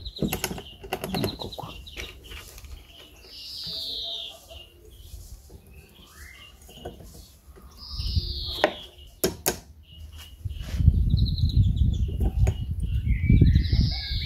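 A bird repeating a short, falling whistled call three times, a few seconds apart. Under it come sharp clicks and taps of the metal propeller and its fittings being handled and slid onto the outboard's propeller shaft. A low rumble comes in for the last few seconds.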